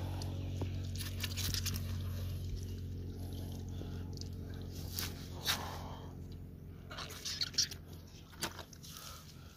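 Tractor engine running steadily, slowly fading. Scattered close clicks and rustles sound over it.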